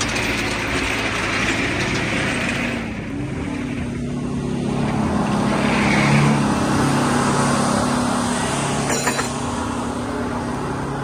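Heavy diesel engine running steadily at moderate speed, getting a little louder about six seconds in.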